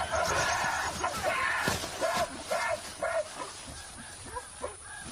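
Mountain gorillas giving a series of short, high-pitched screaming calls in an aggressive confrontation, as females drive off a young male. The calls come thick in the first few seconds, then thin out and grow fainter.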